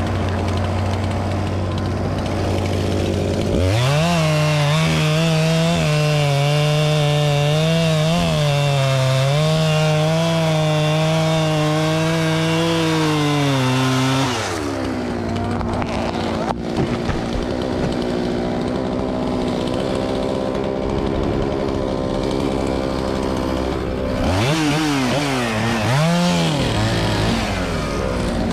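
Chainsaw revving up to full throttle and cutting, its pitch wavering under load for about ten seconds. It then drops back to a lower steady running note and revs up again near the end, the pitch swinging up and down.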